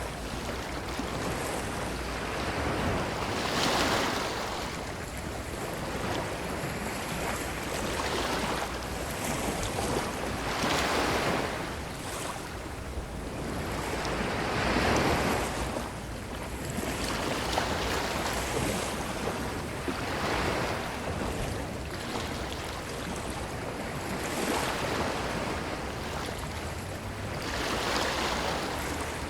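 Ocean surf washing onto a beach: the waves swell and fade every three to four seconds over a steady low rumble.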